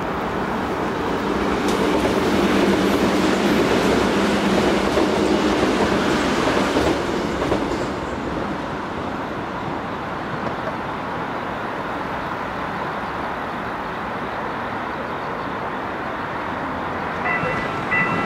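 Electric commuter train running past on the line, loudest in the first several seconds with a steady hum under the wheel noise, then easing to a quieter rumble. Near the end a repeating high ringing tone begins.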